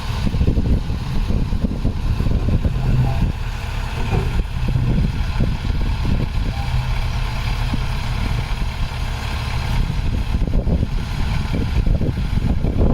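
A heavy diesel engine of earthmoving equipment running steadily, with a deep engine note and a rough, uneven clatter under it.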